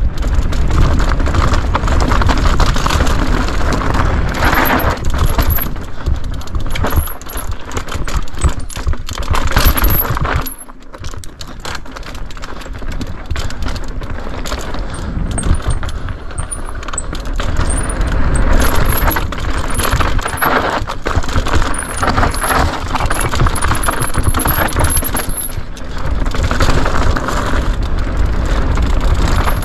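Mountain bike ridden fast down a rough dirt trail: continuous clatter of the bike's chain and parts over bumps, with tyre and wind noise, heard from a chest-mounted action camera. It eases off briefly about ten seconds in.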